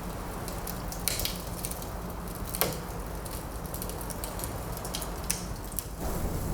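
Wood fire crackling in a fireplace: scattered sharp pops and snaps, the loudest about two and a half seconds in, over a steady low rushing noise of winter wind that grows louder near the end.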